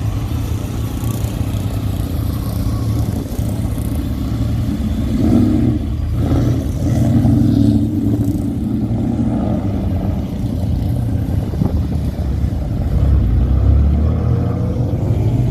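Car engines running as cars drive past, with a deep rumble that swells louder a little before the middle and again near the end as cars pull away.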